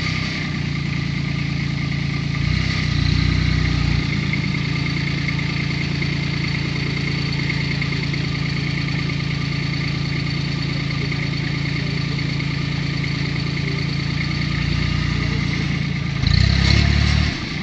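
Kubota B2530 compact tractor's diesel engine running steadily, getting briefly louder and deeper twice, about three seconds in and again near the end.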